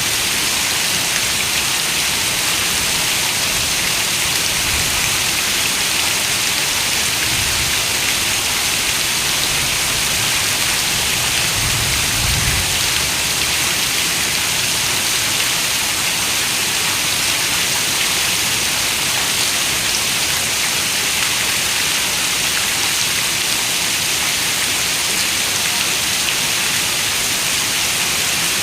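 Steady rain falling, an even, dense hiss that holds at one level. A faint low rumble swells briefly about twelve seconds in.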